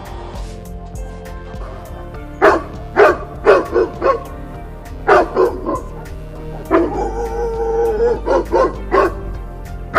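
A dog barking in quick groups of short barks, with one longer drawn-out yelp near the middle, over steady background music.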